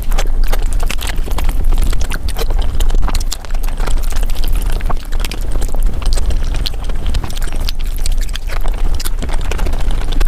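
Close-miked mukbang eating sounds of palak paneer, sped up five times, so the chewing and mouth smacks come as a fast, dense run of clicks.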